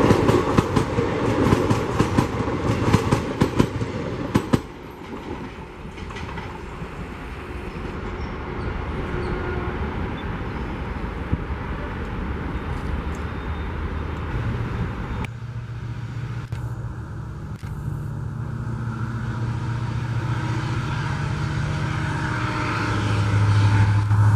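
The last coaches of an express passenger train rush past, their wheels clicking rapidly over rail joints, and the noise cuts off suddenly about four and a half seconds in as the train clears. A steadier, quieter noise follows. Later a low engine hum of road vehicles sets in and grows louder near the end.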